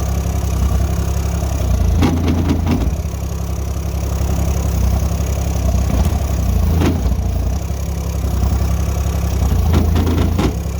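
Chinese-built 2-ton mini excavator's engine running steadily while the bucket works at a stump, with a few knocks and scrapes about two seconds in, again near seven seconds, and near the end.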